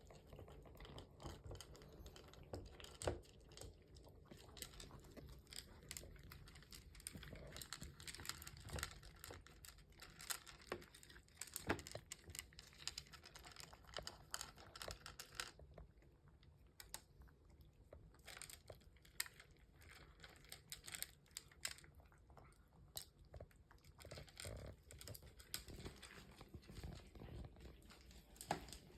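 House cats eating, a faint, steady run of small crunches and clicks as they chew their food.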